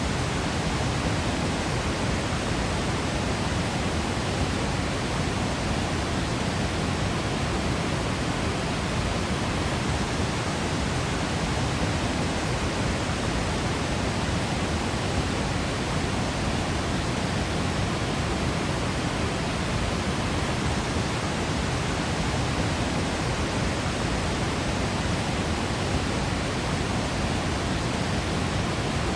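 Steady, unbroken rush of a large waterfall's falling water, an even roar with a full low end.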